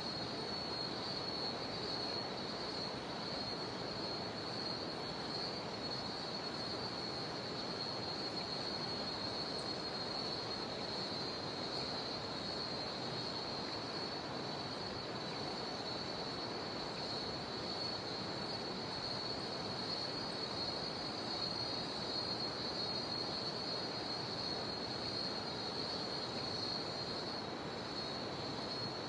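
Cicadas singing in a steady chorus, one continuous high buzz that never breaks, over the even rush of a jungle river.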